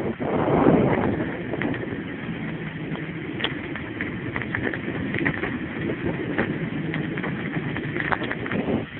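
Wind rushing over the phone microphone and tyre noise from a bicycle coasting downhill, strongest in the first second, with scattered light clicks and rattles from the bike.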